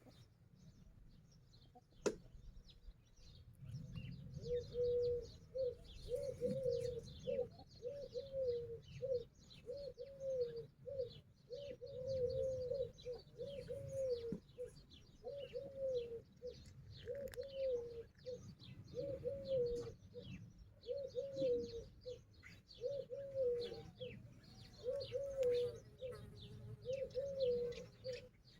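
Chickens making short, repeated low calls, about one or two a second, with small birds chirping high above them.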